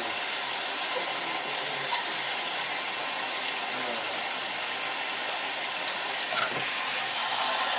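Hotpoint 9534A washing machine filling, with water rushing in through the hot and cold inlet valves at once as a steady hiss that gets slightly louder near the end.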